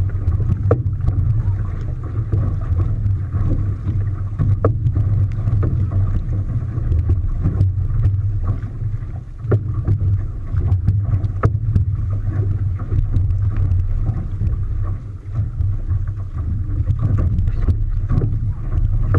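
Steady low rumble of a boat underway on open water, with wind on the microphone and scattered short splashes and knocks.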